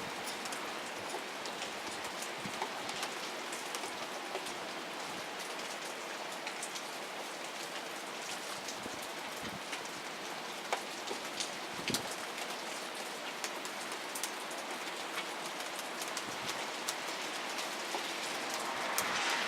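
Steady rain falling during a thunderstorm, an even hiss with scattered sharp ticks of drops striking a nearby surface.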